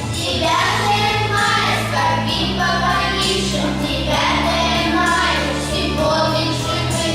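A vocal ensemble singing together over instrumental accompaniment, with sustained bass notes underneath that change every second or two.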